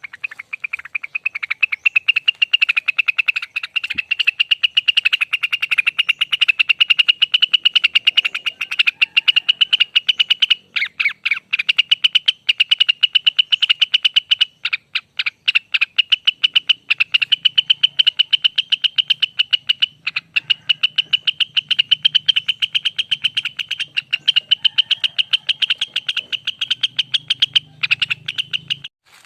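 Cucak wilis (rengganis) bird singing its long rapid rattling song, a fast unbroken run of short high notes with only a few brief pauses.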